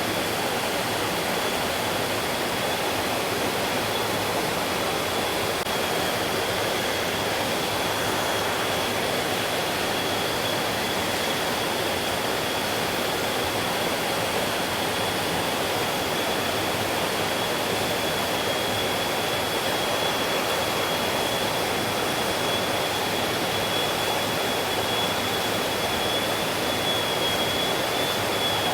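Mountain stream flowing over rocks: a steady, dense rush of water that does not change. A thin, steady high-pitched tone runs faintly above it.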